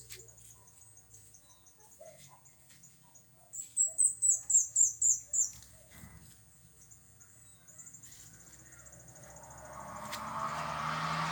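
A bird calling a quick run of about eight loud, high notes about four seconds in, over a steady high-pitched buzz. Near the end a vehicle's noise swells in, growing louder.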